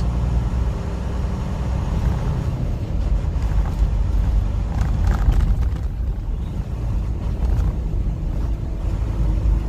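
Semi truck's diesel engine running steadily with road noise, heard from inside the cab as a low rumble.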